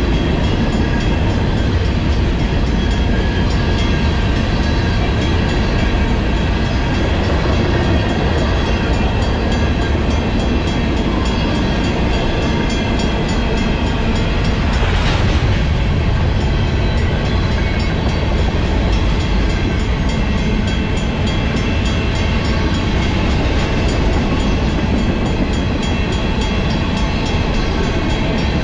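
A freight train of covered hopper cars rolls steadily past, its wheels on the rails making a loud continuous rumble. Over it, a Western-Cullen-Hayes mechanical crossing bell rings. There is a brief louder swell about halfway through.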